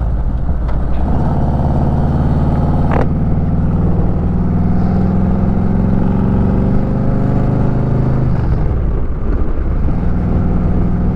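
Motorcycle engine running under way on the open road. Its pitch climbs and falls as it accelerates, breaking briefly about three seconds in and dipping and rising again about nine seconds in, as with gear changes.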